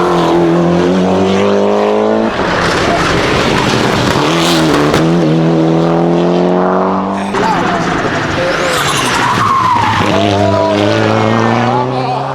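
Hillclimb race car accelerating hard, its engine climbing in pitch and dropping sharply at each of two gear changes before climbing again, with tyre squeal late on.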